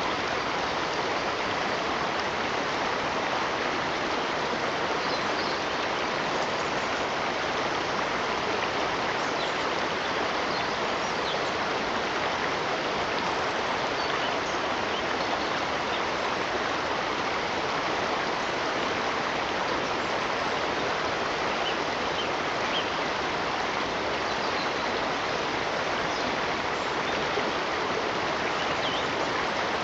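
Steady rush of flowing water, like a stream, even and unbroken, with a few faint, brief high chirps scattered through.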